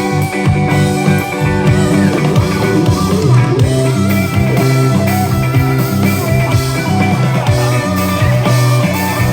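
Live rock band playing an instrumental passage with no vocals: guitar with bending notes over bass and drums.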